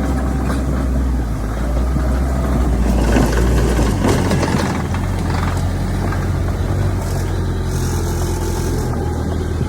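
Heavy diesel engine running steadily under load, its pitch stepping up about four seconds in, with a stretch of clatter around the middle.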